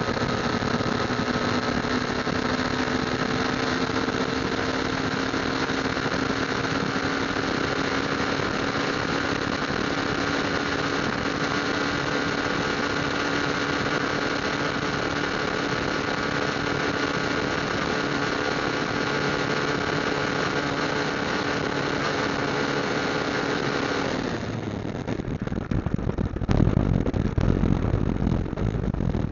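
Motorcycle engine running at a steady cruise, its tone creeping slightly higher in pitch. About 24 seconds in the engine tone drops away and an uneven, gusty low rumble takes over.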